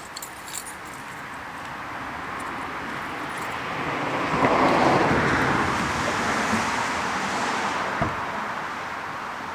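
A car driving past: tyre and engine noise swells to its loudest about halfway through, then fades away. A single knock comes near the end.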